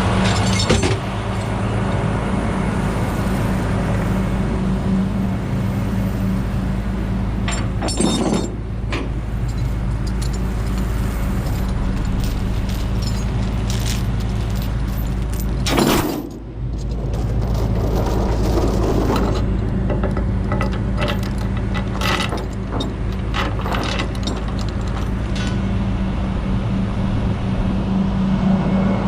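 An engine running steadily at idle, with scattered metallic clanks and rattles over it; a sharp knock about sixteen seconds in is the loudest of them.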